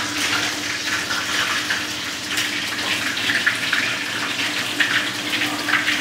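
Meat sizzling steadily in hot oil in a frying pan, with a steady low hum underneath.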